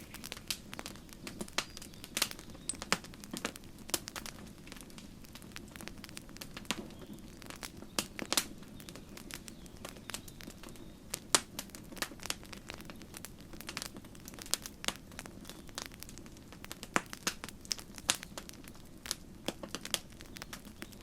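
Campfire crackling: burning wood giving irregular sharp pops and snaps, several a second, over a steady low rush.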